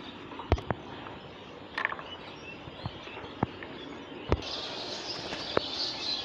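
Outdoor garden ambience with a brief bird chirp and a high insect hiss that grows louder a little past the middle, broken by about half a dozen sharp clicks and knocks.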